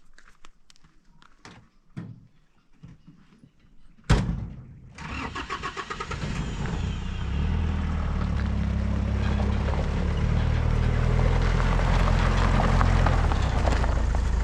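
Faint scattered knocks, then an engine starts with a sudden burst about four seconds in and settles into a steady run that grows louder over the next few seconds.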